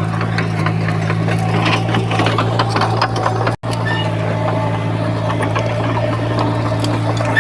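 Diesel engine of heavy earthmoving machinery running steadily, with a clattering rattle over its hum. The sound cuts out for an instant about halfway through.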